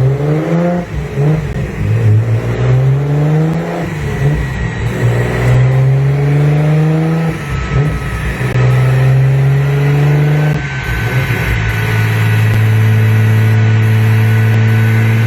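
1995 Toyota Supra's single-turbo inline-six on the dyno, running on E85: the engine note climbs and drops back several times as it goes up through the gears, then settles into a long, slowly rising pull under boost near the end, with a faint rising whistle above the engine.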